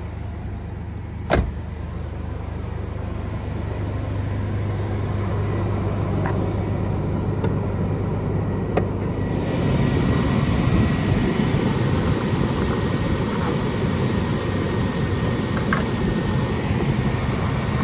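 A 2000 Chevrolet Blazer's 4.3-litre V6 running steadily after a cold start, with a sharp click about a second in. About nine and a half seconds in the sound grows louder and fuller, with more hiss.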